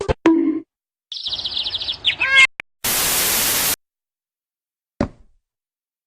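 A rapid, high-pitched chirping trill that ends in a few rising chirps, followed by about a second of loud, even static hiss and then a single short click.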